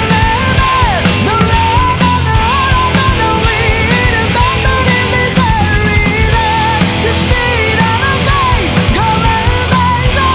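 Heavy rock band playing loud and steady, with distorted electric guitars, bass guitar and drums. A lead melody line bends up and down in pitch over the band.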